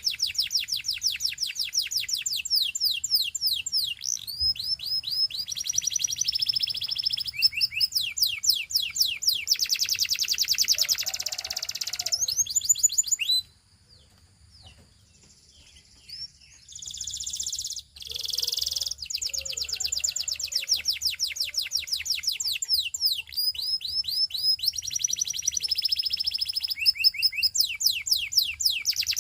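A Belgian singing canary singing long, fast trills and rolls of rapidly repeated high notes. It goes quiet for a few seconds about halfway through, then gives a few short phrases before the trilling resumes.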